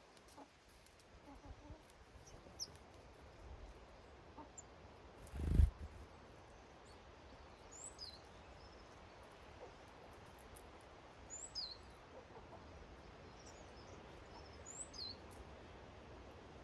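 Small garden birds giving short, high chirps every few seconds over a faint outdoor background, with one dull low thump about five and a half seconds in.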